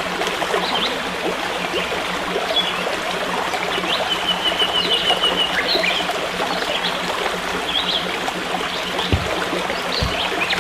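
A stream flowing steadily, with birds chirping over it, including a quick trill of repeated notes lasting about two seconds near the middle.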